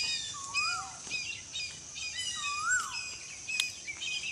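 Birds calling: one call, rising then falling in pitch, comes again and again, with short higher chirps in between.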